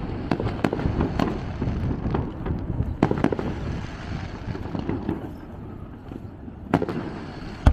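Fireworks going off: a quick run of sharp bangs and crackles over a low rumble, thinning out after about three seconds, then one loud bang near the end.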